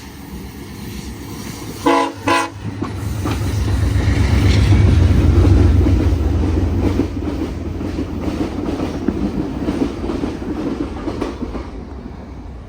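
VIA Rail P42DC locomotive 918 sounds two short horn blasts about two seconds in, a horn salute. The train then passes close by with a deep diesel rumble that swells and eases, and wheels clicking over the rail joints as the passenger cars roll past.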